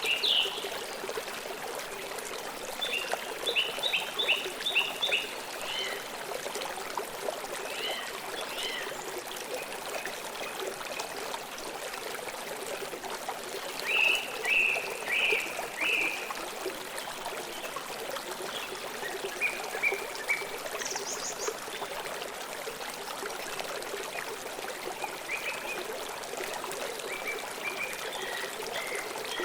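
River water flowing steadily, with small birds chirping in short series of rapid high notes several times.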